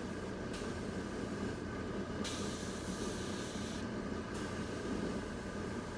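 Airbrush hissing as it sprays ink, cutting out briefly three times as the trigger is released. Under it runs the steady noise of the spray-booth ventilation fan.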